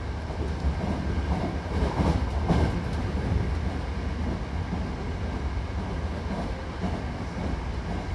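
Running noise inside a Hankyu Railway commuter train car: a steady low rumble of wheels on the track, swelling a little about two seconds in.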